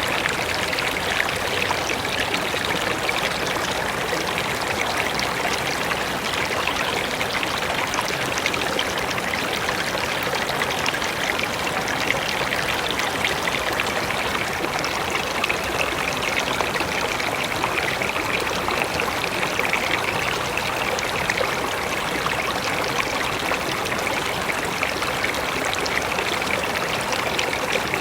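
Mountain river flowing over rocks: a steady rush and splash of water.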